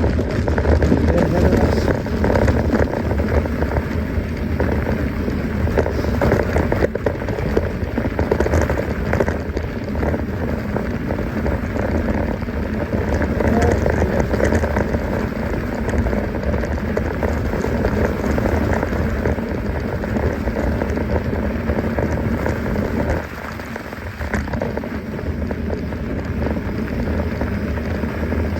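Mountain bike tyres rolling over a dirt and gravel trail, a steady crunching rush that eases for a moment about 23 seconds in.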